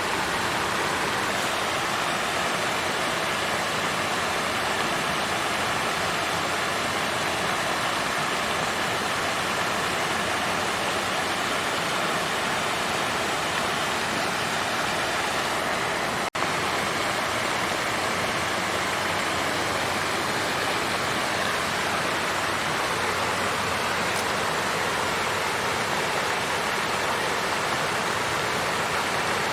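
Water fountain flowing steadily, an even rush of splashing water, with one momentary dropout about halfway through.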